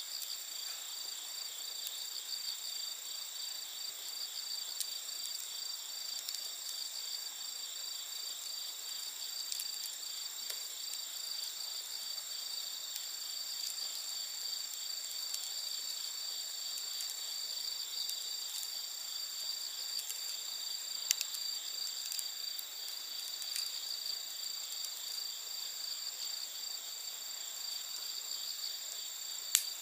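A steady chorus of insects trilling in several high continuous tones. A few sharp pops from a crackling wood fire come through now and then, the loudest a little over two-thirds of the way in and again near the end.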